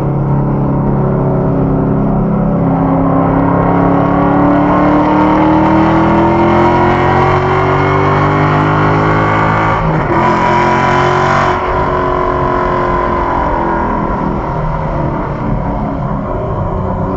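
2015 Mustang GT's 5.0-litre V8 accelerating under load, heard from inside the cabin, its pitch rising steadily for several seconds. About ten seconds in the note changes abruptly with a brief burst of hiss, then settles into steady running at speed.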